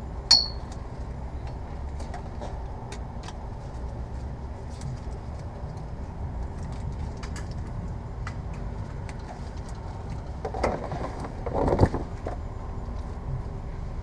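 Metal tool handling while an oil filter wrench is fitted to a stuck oil filter: a sharp ringing metal clink just after the start, light clicks, then a louder scraping scuffle about ten to twelve seconds in, over a steady low background rumble.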